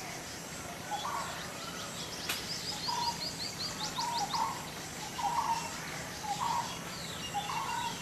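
Birds calling outdoors: short, low calls repeat about once a second, and a fast run of high chirps comes about two to four seconds in. A steady hiss runs underneath.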